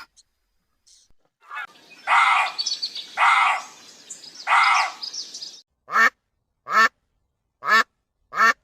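Animal calls: after a short pause, three longer harsh calls about a second apart, then four short calls, each falling in pitch.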